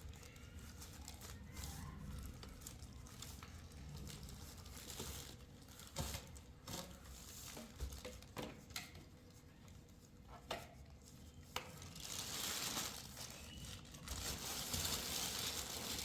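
Faint scattered knocks and rustling handling noises, then a steadier hiss from about twelve seconds in.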